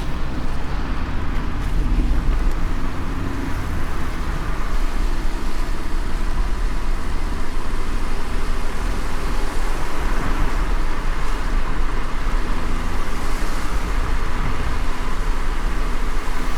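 A moving car's steady engine and road rumble, with an even hiss of tyres and wind above it.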